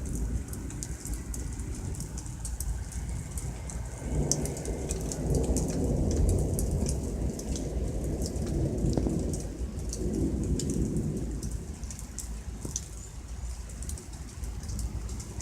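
Rain falling during a thunderstorm, with many sharp drop ticks throughout. A long roll of thunder swells about four seconds in and fades away around eleven seconds in.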